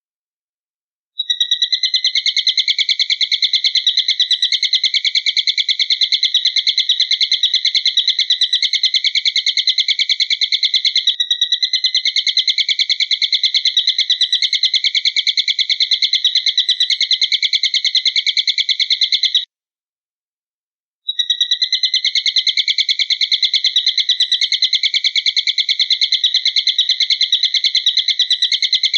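Recorded high-pitched bird call: a fast, evenly pulsing trill held steadily for long stretches, starting about a second in, breaking off for a second or two about two-thirds of the way through, then starting again.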